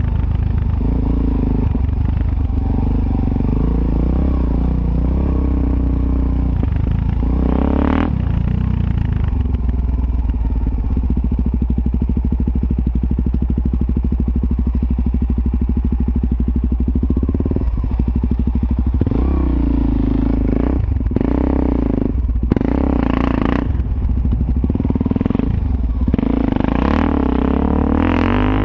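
Suzuki DR-Z400S's single-cylinder four-stroke engine running while being ridden. The throttle is blipped about eight seconds in, the engine then holds a steady speed for several seconds, and near the end comes a cluster of quick revs.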